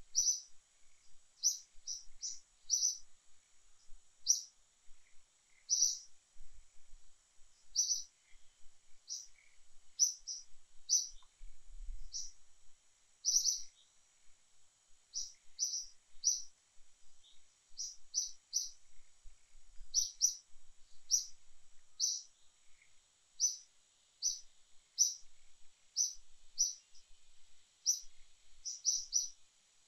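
A small bird chirping over and over: short, high chirps about one to two a second, often in quick pairs, over a faint steady high hiss.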